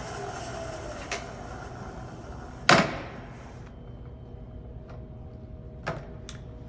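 Clunks and clicks from the Trak DPM bed mill's head as it is shifted from low to high gear: a loud metallic clunk about three seconds in, with lighter clicks before it and twice near the end, over a low steady machine hum.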